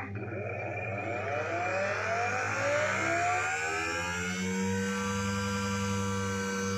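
Freshly repaired mobility-scooter electric drive motor spinning up. Its whine rises in pitch over the first few seconds, then it runs at a steady speed with a low hum under the whine.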